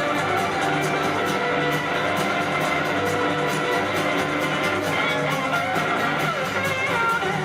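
Live band playing an instrumental break, with an electric guitar leading over a steady rhythm section. Notes glide in pitch near the end.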